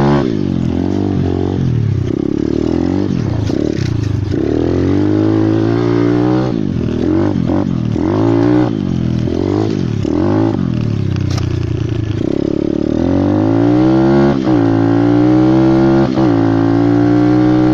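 Pit bike engine being ridden hard, revving up and dropping back over and over as it shifts or backs off for turns. Near the end it holds a steadier, higher pitch with a couple of quick dips.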